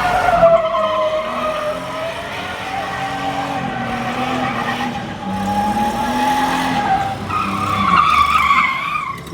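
A car doing a burnout: tires squealing against the pavement, a wavering high squeal, over the engine revving up and down.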